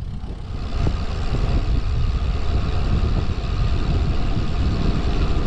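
Wind buffeting the microphone of a camera on a moving road bike, with tyre and road noise underneath: a steady low rumble with a rushing hiss that grows stronger about half a second in.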